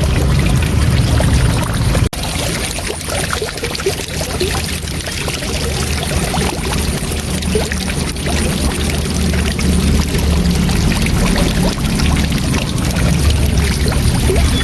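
Waterfall rushing in a steady, dense roar of falling water that is heaviest in the low end. It briefly cuts out for an instant about two seconds in.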